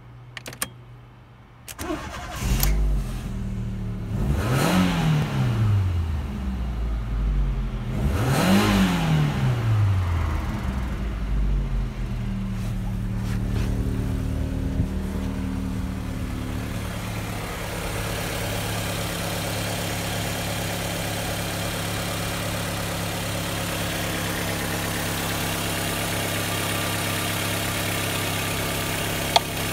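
Fiat Brava's 1.6-litre four-cylinder petrol engine (182A4000) cranked and catching about two seconds in. It revs up and back down twice, then settles to a steady idle. The idle is later heard up close in the open engine bay, with a single sharp click near the end.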